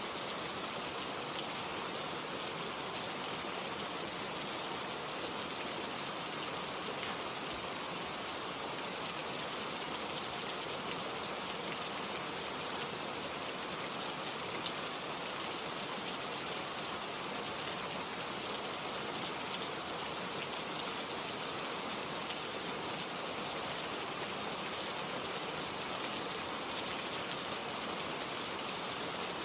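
Gentle rain falling steadily, a constant patter of drops with no thunder.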